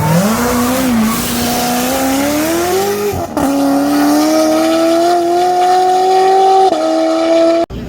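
Turbocharged V8 car accelerating hard at full throttle, its pitch climbing, with an upshift about three seconds in and another near the end. The sound cuts off abruptly just before the end.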